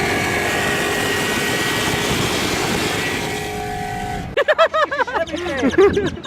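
Steady motor-vehicle noise with a few faint humming tones. About four seconds in it cuts off abruptly and gives way to a quick run of warbling chirps that fall in pitch.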